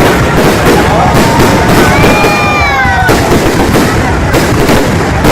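A fireworks display going off in a dense, continuous barrage of bangs and crackling. A pitched whistle slides downward for about a second, about two seconds in.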